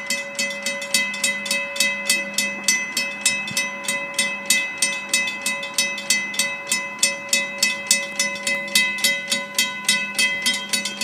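Railroad grade-crossing bell ringing steadily at about three strikes a second as a Florida East Coast freight train passes.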